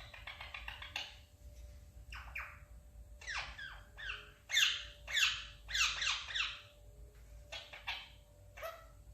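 Pet parrot calling: a quick run of chirps at the start, then a string of short calls that each sweep downward in pitch, the loudest bunched together about halfway through.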